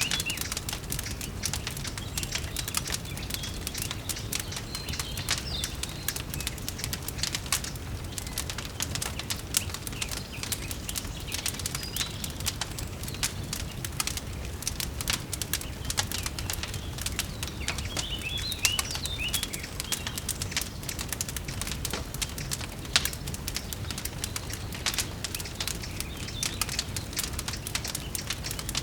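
Wood fire crackling with dense, irregular pops over a steady low rumble, and a bird chirping a few times in short high calls.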